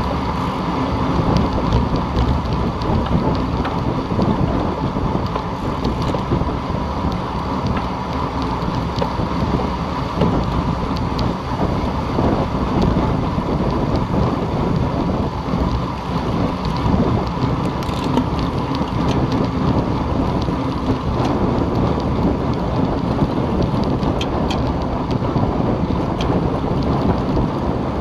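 Steady, loud wind noise buffeting the microphone while riding a road bicycle at speed, with a faint ticking here and there.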